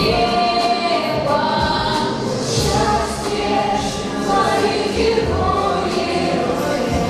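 A choir singing a song over musical accompaniment, with held, sustained notes.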